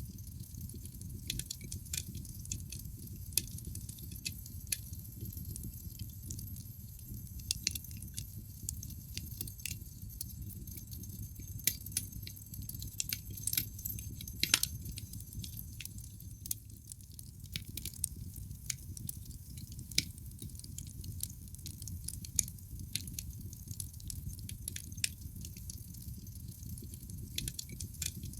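Wood fire in a fireplace crackling: irregular sharp pops and snaps from the burning logs over a steady low rumble of the flames, with a few louder pops about halfway through.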